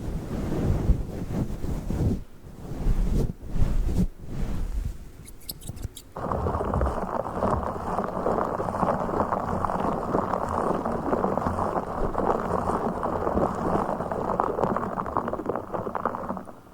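Close-miked ASMR triggers: scissors worked against a fluffy microphone cover in uneven snips and scrapes for about six seconds. Then, abruptly, a blue fish toy is handled right at the microphone, giving a dense, steady rustling.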